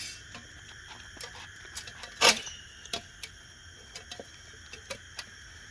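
A handful of scattered sharp knocks and clicks, the loudest about two seconds in, over a steady high drone of insects.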